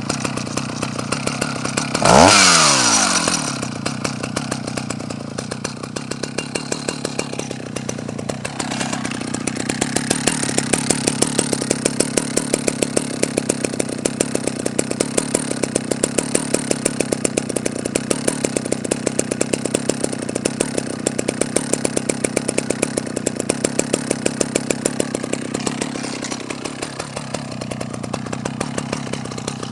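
Husqvarna L65 two-stroke chainsaw engine settling back from high revs, blipped once briefly about two seconds in, then idling steadily with a regular firing pulse.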